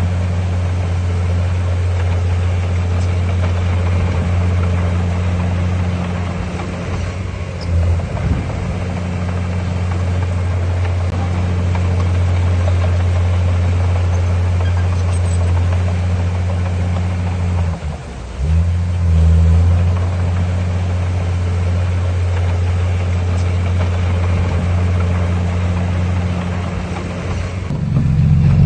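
Heavy construction machinery's diesel engine running steadily at a constant low pitch, briefly dropping off about 18 seconds in before picking up again.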